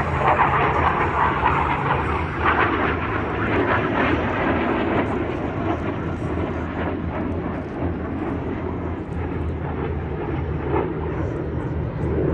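BAE Hawk jet trainers' Adour turbofan engines: a steady rushing jet roar as the formation flies its display passes, swelling louder near the end.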